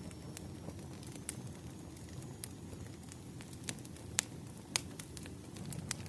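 Wood fire crackling: irregular sharp pops and snaps of burning firewood over a low steady rumble of flames, with the loudest pops a little past four seconds and about five seconds in.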